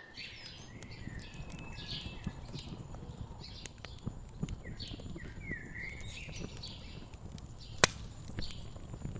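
Wood fire crackling, with a low rumble and frequent small pops, one much louder sharp pop near the end. Small songbirds chirp over it again and again.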